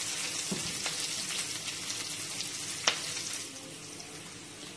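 Onion, garlic, ginger, red and green chillies and cumin seeds sizzling in hot oil in a non-stick frying pan: a steady hiss. There is a single sharp click about three seconds in, and the sizzle eases a little soon after.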